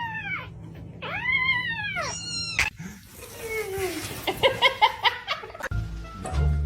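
Domestic cat meowing several times. A short meow comes at the start and a longer rising-and-falling meow about a second in, followed by a falling call and a quick run of short calls.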